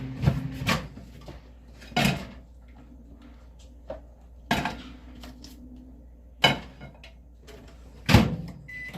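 A spoon or stirrer knocking against the soap container while mica colourant is mixed into melted soap base: about six separate sharp knocks, irregularly spaced a second or two apart, the last one near the end the loudest.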